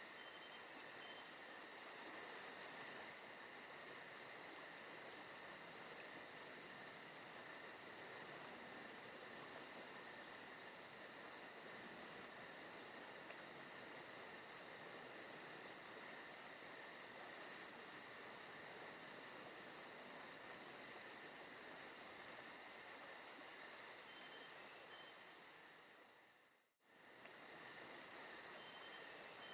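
Crickets and other insects chirring steadily in a forest ambience recording, with a fast, even high-pitched pulsing over a constant trill. About 26 seconds in, the chorus fades out to near silence for a moment, then fades back in.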